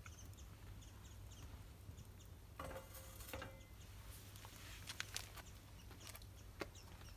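Faint bird chirping: short, high, downward-sliding notes repeated several times a second, with a few sharp clicks and a short rustling clatter in between.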